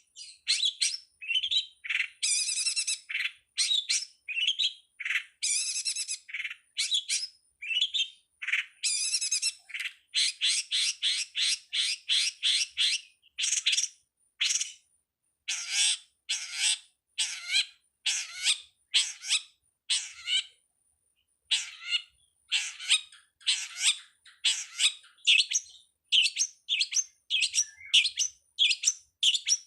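Long-tailed shrike (pentet) singing: a rapid, continuous string of short, harsh chattering and chirping phrases, several a second, with only brief pauses.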